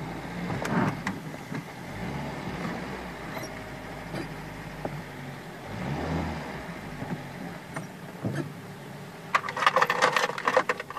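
Warmed-up four-cylinder OHV engine of a Polonez Caro 1.6 GLI idling, heard from inside the cabin; the low hum drops away about eight seconds in. Near the end comes a loud, rapid run of mechanical clicks and rattles.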